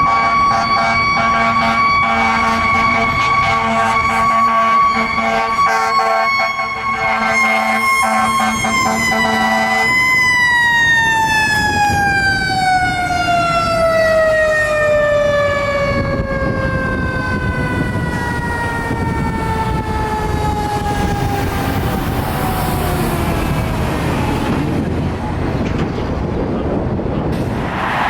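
Fire truck's mechanical siren, a Federal Q, held at a steady high pitch with a low air horn sounding under it. About ten seconds in the horn cuts off, and the siren winds down, its pitch falling slowly over the next dozen seconds.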